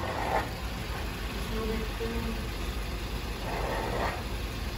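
Suzuki Jimny's engine running steadily in third gear and low range, turning all four jacked-up wheels together with the front and rear diff locks engaged.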